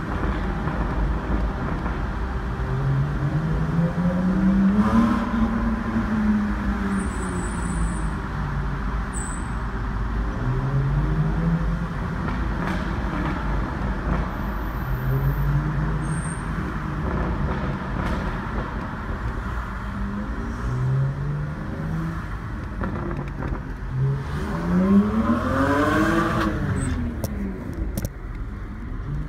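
BMW E90 330i's 3.0-litre N52 inline-six, breathing through a BMW Performance exhaust with the midpipe deleted (straight-piped), revs up and eases off again about five times, heard from inside the cabin in a tunnel. The last and loudest rise comes near the end, and the sound fades out just before the end.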